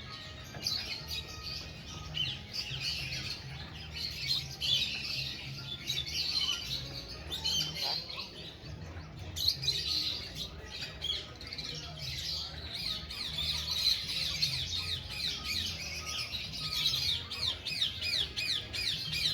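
Sun conure chirping and chattering in short calls, breaking into a quick run of repeated chirps near the end.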